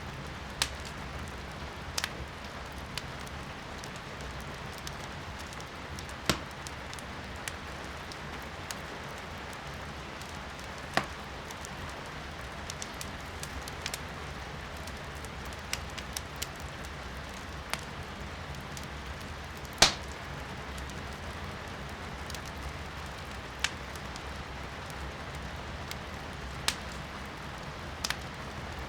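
Firewood burning in a fireplace, crackling with irregular sharp pops, the loudest about two-thirds of the way through, over a steady hiss of rain.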